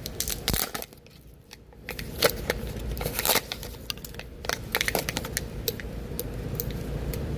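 Plastic food packaging crinkling and being torn open, a string of irregular crackles and clicks.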